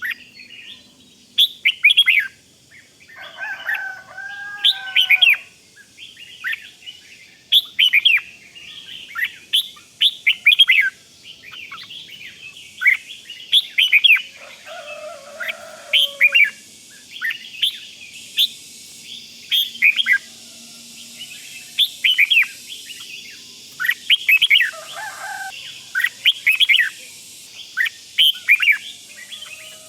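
Red-whiskered bulbul giving its rapid 'rik' calls: short, sharp, downward-sweeping chirps repeated in quick clusters, with a few lower warbled phrases mixed in about 4, 15 and 25 seconds in.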